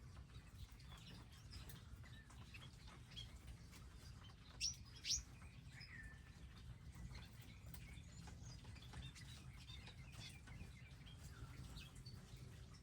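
Small wild birds chirping faintly in scattered short calls, with two louder sharp chirps about five seconds in, over a steady low background rumble.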